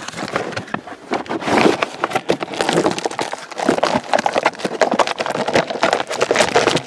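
Consumer fireworks going off: a rapid, irregular run of sharp crackling pops and bangs.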